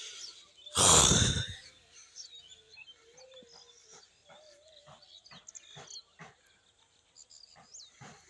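A loud rushing burst about a second in, lasting about half a second. After it come scattered soft clicks and short high bird chirps at intervals.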